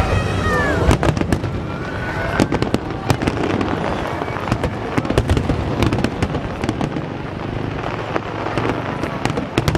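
Fireworks display: aerial shells bursting, with many sharp bangs and crackles in quick, irregular succession.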